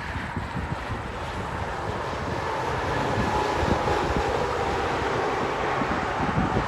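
A truck passing on the road, its engine and tyre noise growing louder over the first three seconds and then holding steady. Wind buffets the microphone throughout.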